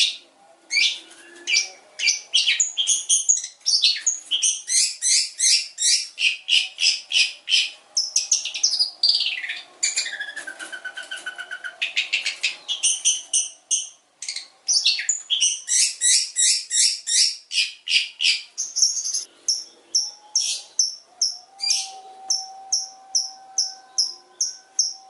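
Long-tailed shrike singing a fast, loud song of rapid repeated high notes and trills, with a downward-sliding phrase about ten seconds in. Near the end it settles into a steady run of quick high chirps, about four a second.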